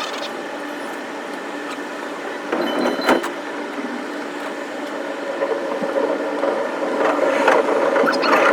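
Electric commuter train running, heard from on board: a steady motor hum with several tones, one sharp clack about three seconds in, and the sound growing louder over the last few seconds.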